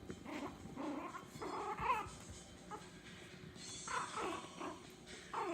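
Chihuahua puppies play-fighting, making short high-pitched yelps and whines that come and go in several brief bouts.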